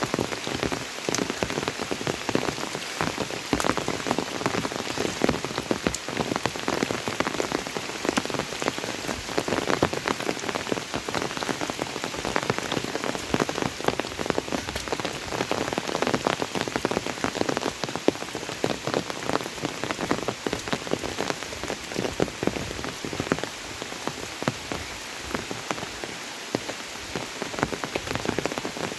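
Steady heavy monsoon rain: a dense, even patter of countless drops.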